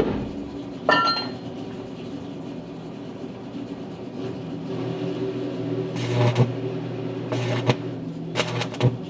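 A piece of metal is struck and rings once about a second in. Then an electric welding machine hums steadily, with three short bursts of arc crackle near the end.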